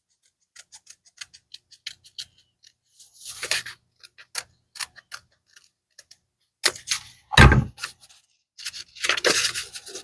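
Scissors snipping through paper in short, irregular clicks, with paper rustling in between as a heart-shaped pattern is cut out.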